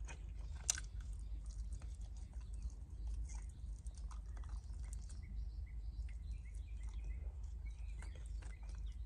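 Close-up chewing and small mouth and fork clicks of someone eating fried chicken, over a steady low rumble of wind coming through the open car windows. Faint short bird chirps come in during the second half.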